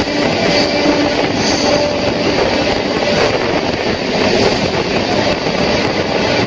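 Running noise of a moving passenger train: wheels on the rails with a loud, steady rumble. Faint squealing tones are heard for the first few seconds.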